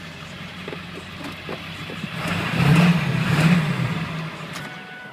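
1999 Ford F250 Super Duty's 7.3-litre turbo diesel V8 idling, then revved about two seconds in: it swells twice and drops back to idle about four seconds in.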